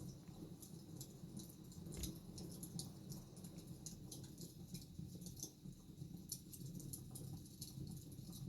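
Wood fire crackling in a fireplace: many small snaps and pops over a low steady rumble, with one sharper pop about two seconds in.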